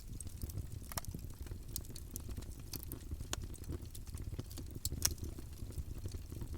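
Campfire burning, a steady low rumble of flames with irregular crackles and pops from the wood, one sharper pop about five seconds in.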